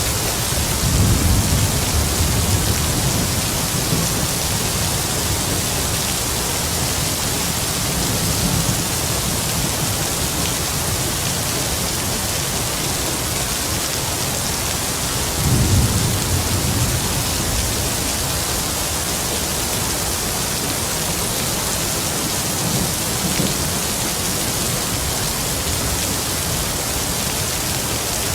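Heavy rain falling in a steady hiss, with distant thunder rumbling low under it: a swell about a second in, another around the middle, and fainter ones between.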